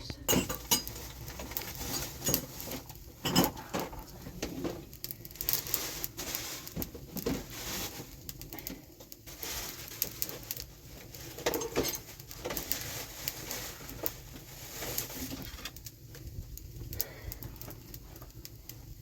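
Irregular clicks and light knocks, one after another, over a low steady background rumble.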